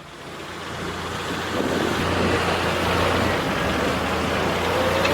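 Heavy machinery engine running under load, swelling in level over the first second or so and then holding steady, with a faint rising whine near the end.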